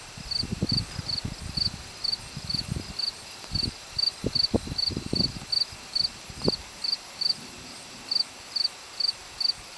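Chirping insects outdoors at night, an even, rhythmic high-pitched chirp about three times a second, with scattered short low thumps underneath.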